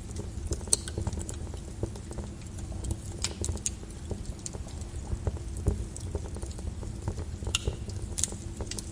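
Lava crackling and popping in irregular sharp clicks over a steady low rumble.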